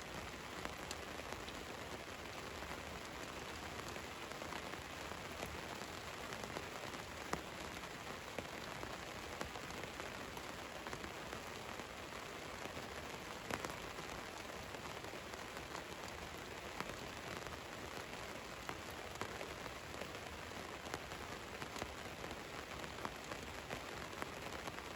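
Steady rain falling on a van's roof: an even hiss of drops with many small sharp taps, a couple of them louder about a third of the way in and around the middle.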